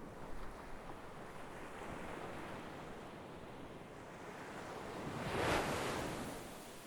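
Sea waves washing onto a shore. One wave swells and breaks loudly about two-thirds of the way through, then drains away.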